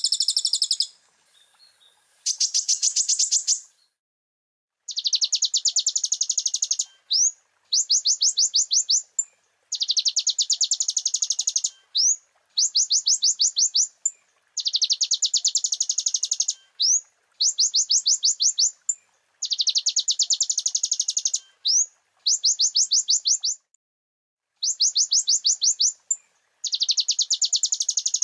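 Konin sunbird singing fast, high trills in runs of about two seconds. Short upward-sliding notes and brief pauses fall between the runs.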